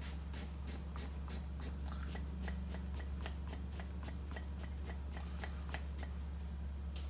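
Hand vacuum pump worked rapidly on a chainsaw crankcase, a quick sharp stroke about four times a second that stops about six seconds in, over a steady low hum. The crankcase will not pull down to a vacuum: it fails the leak test, the sign of air leaks.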